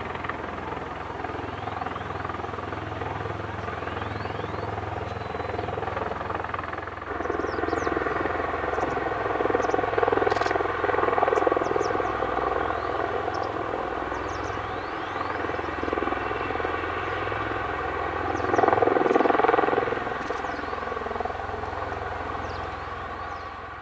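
Aircraft turbine engines running with a steady, many-toned whine. The sound swells louder about seven seconds in and again near the end.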